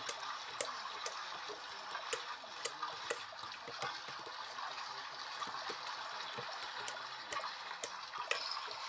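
LG washing machine in its rinse cycle: water running and moving in the drum as a steady wash of noise, with scattered small clicks over it.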